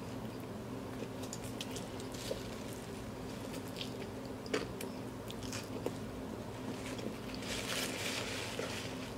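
A person chewing a mouthful of sauce-covered fries with soft, wet mouth clicks, over a steady low hum. About seven and a half seconds in comes a brief rustle of a paper napkin wiping the mouth.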